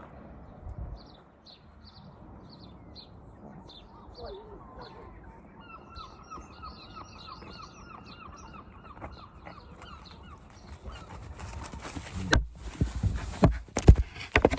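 Farmyard birds calling with short repeated chirps and a quick run of evenly spaced calls. Near the end come several loud knocks and bangs.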